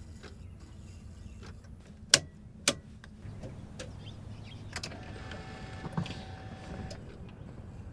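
GM LS3 6.2-litre V8 idling just after start-up, a steady low rumble. Two sharp clicks come about two seconds in.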